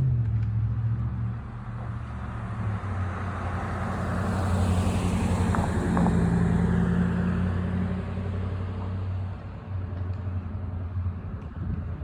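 A passing vehicle: a steady low engine drone under a rushing noise that swells to a peak about five seconds in, then fades away.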